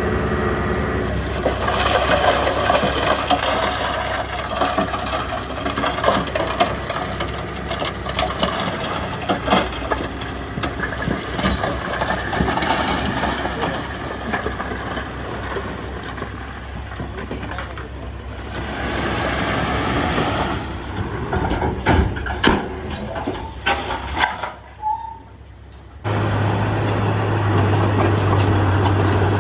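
Heavy diesel earthmoving machinery working, engine noise with many short knocks and clatters. Near the end the sound dips briefly, then switches abruptly to a steady low engine drone.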